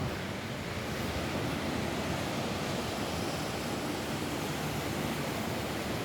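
Steady rain falling on a roof: a continuous, even hiss.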